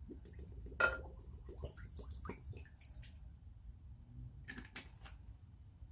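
Pineapple juice being poured into a slow cooker's crock, with a few light clicks and knocks from the container, the sharpest about a second in.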